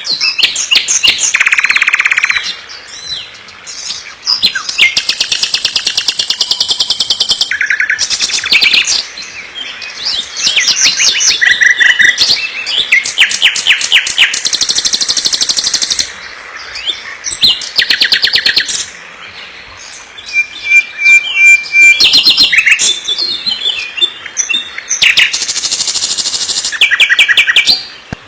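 Small songbirds chirping and singing loudly in long, rapid trilled phrases, with short pauses between bursts.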